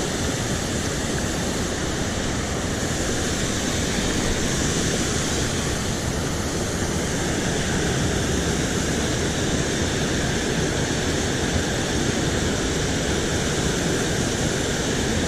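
Steady rushing of water pouring over a small creek spillway.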